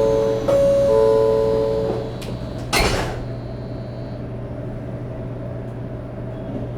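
Two-note electronic chime sounding twice, aboard a Shinkansen 500 series train standing at a station before departure. About three seconds in comes a short, loud burst of noise, then the train's steady low hum.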